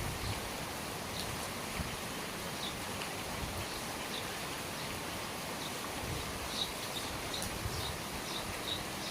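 Steady rain falling, heard from under the eaves, with small birds giving short high chirps here and there, more often in the second half.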